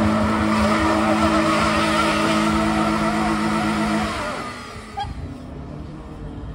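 Open two-seater trials car's engine held at high revs as it climbs a steep mud hill, its wheels spinning and throwing mud. The engine note falls away sharply about four seconds in, as the revs drop.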